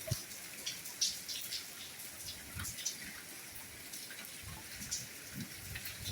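Soft rainfall: a steady hiss with many separate drops pattering and dripping, and now and then a dull low drip.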